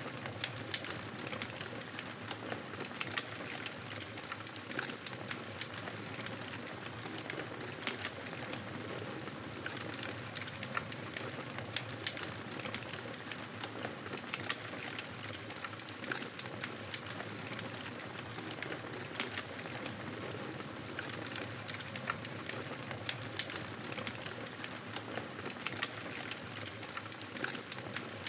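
Wood fire crackling: a steady hiss dotted with frequent small sharp pops and snaps.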